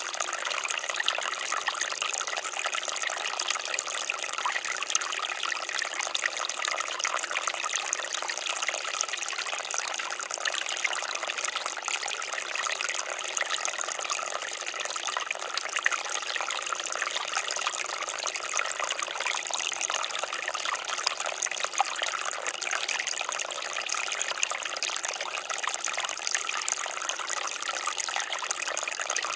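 Water fountain splashing and trickling steadily, a continuous bright patter of falling water with no change.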